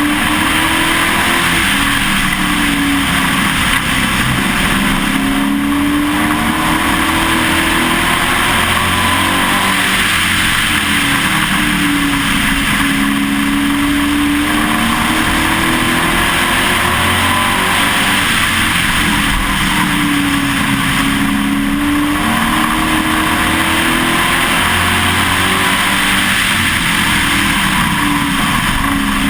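Pro Truck race truck's engine at racing speed, heard from inside the cab. Its pitch drops and climbs back about every eight seconds as it slows into the turns and accelerates out, over constant wind and road noise.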